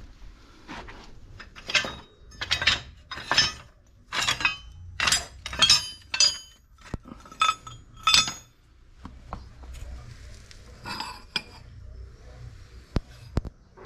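Metal pieces clinking and striking against each other: a dozen or so sharp ringing strikes about every half second, thinning out to fainter clicks after about eight seconds.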